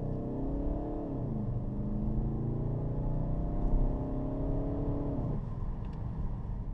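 Volkswagen Golf GTD's four-cylinder turbodiesel under hard acceleration. Its pitch rises, drops with an upshift about a second in, then climbs steadily again. Near the end the engine note falls away and leaves a low rumble.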